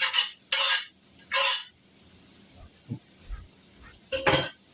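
Broccoli and garlic sizzling in a hot pan, a steady high hiss, with a spatula scraping and stirring through it in short strokes: three in quick succession at the start and one more near the end.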